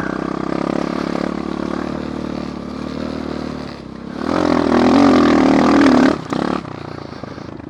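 Apollo dirt bike engine running steadily under way, then revved harder for about two seconds before the throttle is shut off suddenly.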